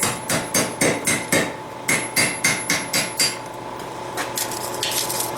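Blacksmith's hammer striking steel on an anvil, about a dozen blows at roughly three a second, each with a ringing note, as a forged tool is reshaped to open it up a little. The blows stop about three seconds in, leaving a couple of lighter knocks.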